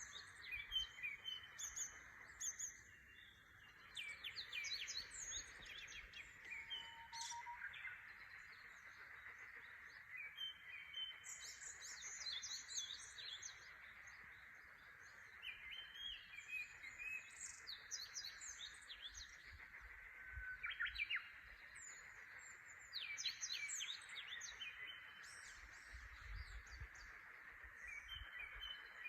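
Several wild birds singing at dawn, their short repeated phrases overlapping throughout. Underneath runs a faint, steady chorus of frogs from the rice fields, still subdued in the morning chill.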